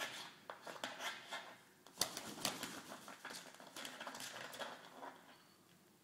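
A parrot bathing: irregular splashing of water with sharp clicks and patters, the sharpest splash about two seconds in, dying down near the end.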